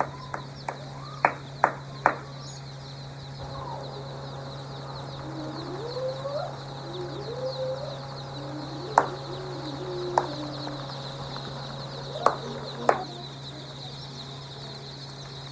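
Chickens clucking, with a few rising and falling calls through the middle, along with sharp taps: a cluster in the first two seconds and a few more later on. A steady low hum runs underneath.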